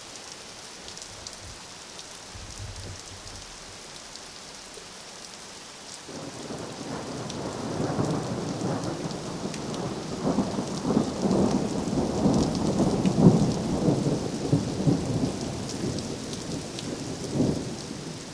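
Steady rain, then about six seconds in a long roll of thunder builds, rumbling for around ten seconds before dying away near the end.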